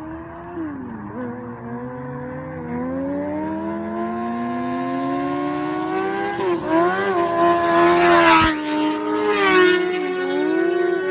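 A motor vehicle engine accelerating, its pitch climbing steadily for several seconds. About two-thirds of the way in the pitch wobbles and briefly dips, then a loud rushing noise swells and fades while the engine holds a high, steady pitch.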